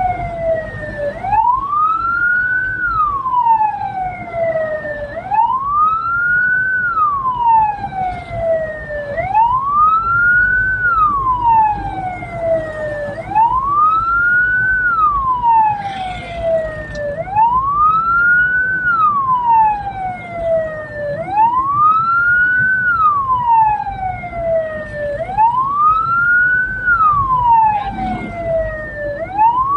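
Hearse's electronic siren wailing in a slow, even cycle, about every four seconds a quick rise followed by a long fall in pitch, over the vehicle's engine and road noise.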